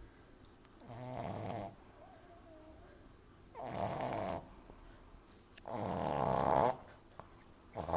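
French bulldog puppy snoring in her sleep, loudly: three snores about two seconds apart, each longer and louder than the last, with a faint whistling tone between the first two and a fourth snore starting at the very end.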